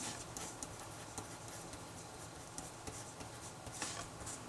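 Handwriting on paper: short, faint scratching strokes and light ticks as the working is written out, with one longer stroke near the end.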